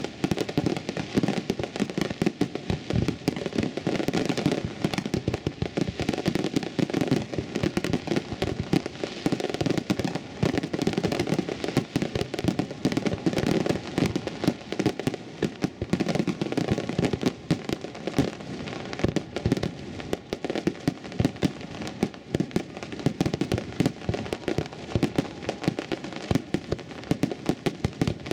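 Fireworks finale: a dense, unbroken barrage of aerial shell bursts and crackling reports, many a second.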